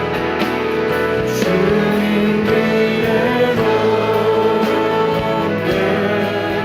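Christian worship song with singing over instrumental accompaniment, guitar among the instruments.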